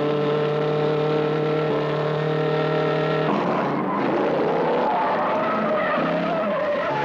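Film-soundtrack car racing: engines running at a steady pitch, then about three seconds in, tires skidding with a wavering squeal over noise.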